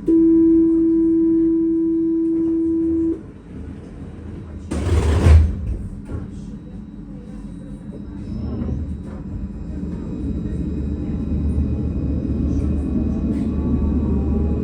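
Tram door warning signal: a loud, steady electronic tone held for about three seconds, then a short loud burst of noise about five seconds in as the doors shut. The tram then pulls away, its rumble building while the electric motor whine rises in pitch.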